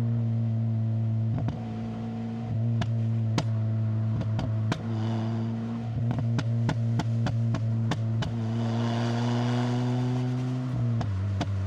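Proton Inspira's 4B11 2.0-litre MIVEC four-cylinder running through a MAX Racing R5500 muffler, pulling at a steady, moderate engine speed under load uphill. The pitch steps down near the end, and sharp clicks sound throughout.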